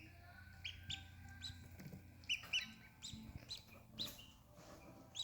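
Newly hatched mallard ducklings peeping: about a dozen short, high, irregular peeps.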